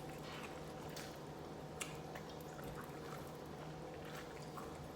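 Faint eating sounds of beef short rib soup: soft wet, liquid noises and a few small clicks, over a steady low hum.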